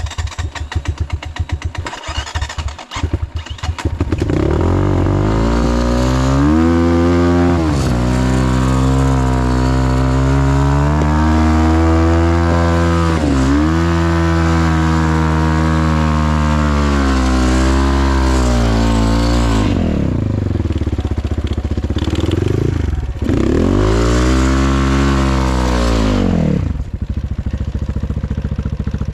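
Off-road motorcycle engine revved hard under load, as on a steep climb: it starts low and choppy, then climbs to high revs held for long stretches, its pitch dipping and recovering several times as the throttle is worked, and falls back to lower revs near the end.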